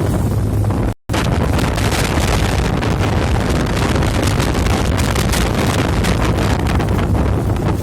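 Strong wind buffeting the microphone on a moving boat, over a low steady engine drone. The sound drops out for an instant about a second in.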